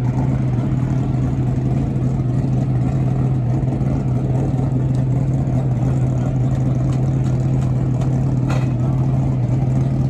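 Steady drone of race-truck V8 engines holding one pitch throughout, with no pass-by rise and fall.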